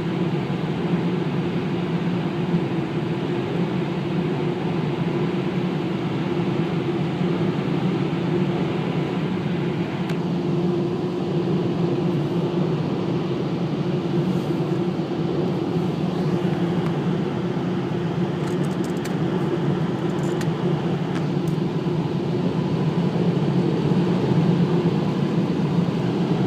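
Automatic car wash air dryer blowers running steadily, heard from inside a car creeping through the drying stage, a continuous rushing hum. The higher hiss eases off about ten seconds in.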